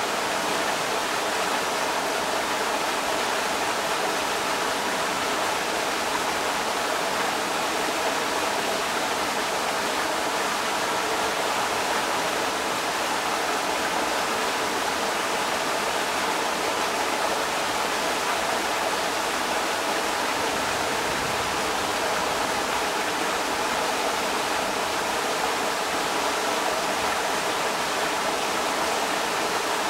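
Creek water rushing steadily over rocks, an even, continuous noise with no breaks.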